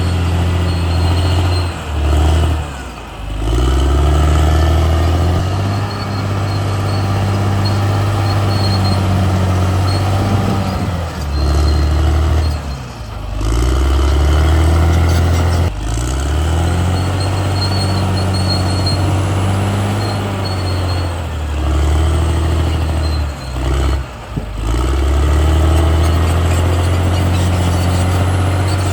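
CAT D6R XL bulldozer's diesel engine running steadily under load. Its level and pitch drop and pick back up about five times as the machine works.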